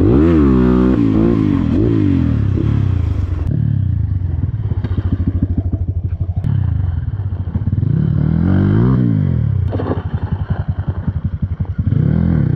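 Dirt bike engine running under way, its revs rising and falling several times: near the start, around two seconds in, around nine seconds in and again near the end.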